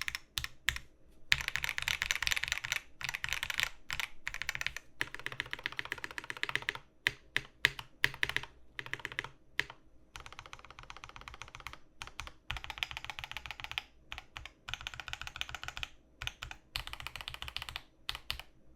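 Typing on a Rama Works Kara custom mechanical keyboard with lubed, filmed Snow White linear switches, a PE foam mod and GMK Darling doubleshot ABS keycaps. Fast runs of keystrokes broken by short pauses, with a few louder single presses, over a faint fan hum.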